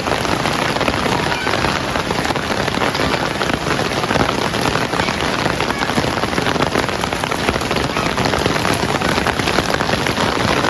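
Heavy rain falling steadily, an even, dense hiss of countless small drop impacts with no letup.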